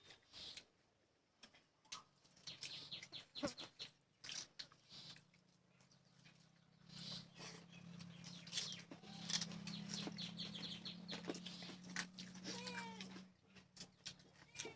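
A cat meowing, with scattered short clicks and taps throughout and a low steady hum through the middle.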